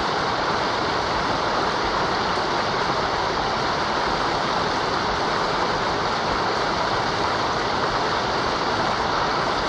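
Mountain river water running steadily, an even, unbroken hiss of flowing water.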